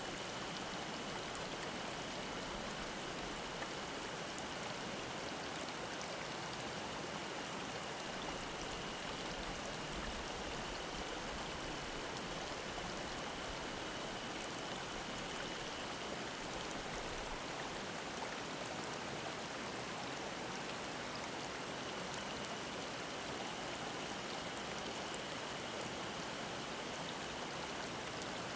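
Mountain stream babbling steadily. Above it, a steady high cicada drone; it fades for a few seconds past the middle and comes back.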